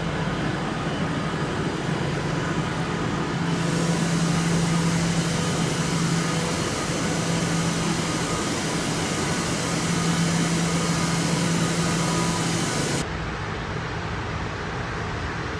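Steady hum and rushing noise of a Caledonian Sleeper train standing at the platform, its on-board equipment running. The hiss grows brighter a few seconds in, and near the end the sound drops suddenly to a quieter, duller background.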